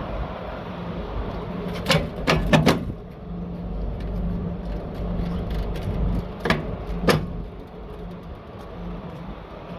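Scania P 280 truck's diesel engine running steadily, with five sharp knocks: three in quick succession about two seconds in, then two more a few seconds later.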